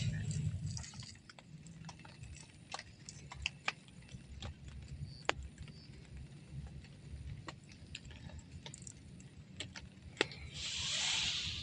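Scattered single drips ticking irregularly on a surface over a low rumble, with a swell of hissing noise near the end.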